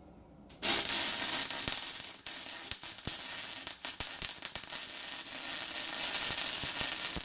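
Electric arc welder laying a bead on steel exhaust pipe: the arc strikes suddenly about a second in and keeps up a steady, loud crackling sizzle, with a few brief dips.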